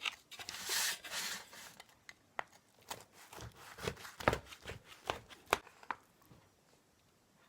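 Kitchen handling sounds: irregular light taps and clicks, with a rustling scrape about a second in. They stop after about six seconds.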